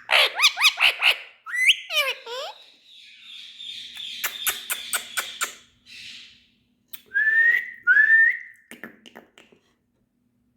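Indian ringneck parrot whistling and chirping: a quick run of chirps, a few sliding whistles, a stretch of rapid clicks, then two loud whistled notes that rise and fall, and quiet for about the last second.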